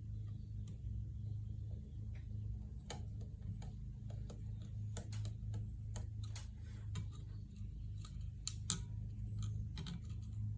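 Steady low hum with scattered irregular clicks and taps, most of them between about three and nine seconds in.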